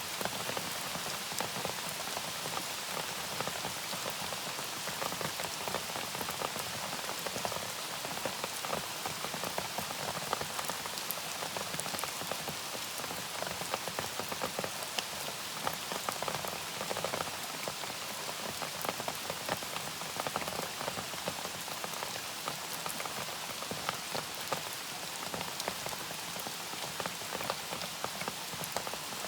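Steady rain falling, with many single drops ticking on a surface over an even hiss.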